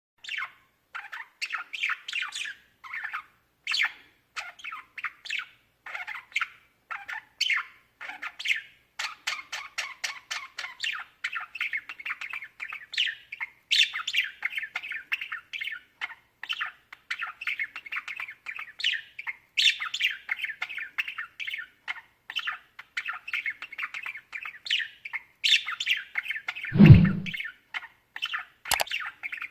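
Budgerigars chattering: a dense stream of rapid chirps, warbles and squawks, with a single loud thud near the end.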